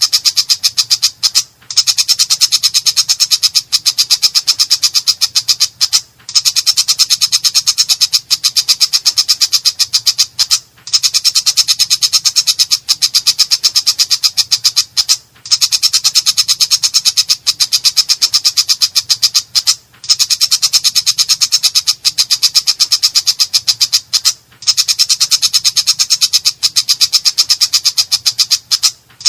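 Long-tailed shrike (cendet) singing a harsh, rough chattering song: very fast repeated notes in long phrases of about four seconds, each broken off by a brief pause.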